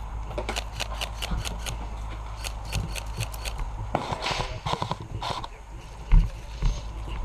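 A quick run of sharp clicks and taps, about five a second, which thins out after a few seconds, then a single heavy thump about six seconds in.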